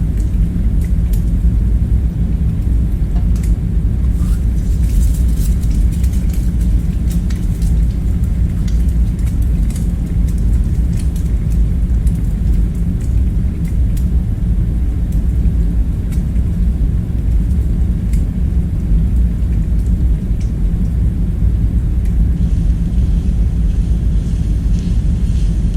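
Steady low rumble of background ambience, with faint scattered clicks and taps over it.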